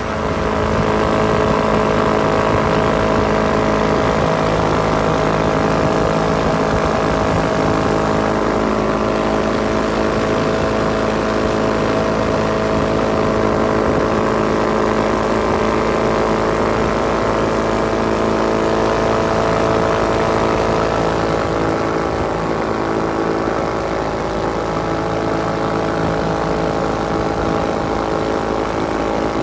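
Rotax 582 two-stroke twin-cylinder engine of a Corsario MKI amphibious ultralight running steadily at constant speed, with its propeller turning; slightly quieter from about two-thirds of the way in.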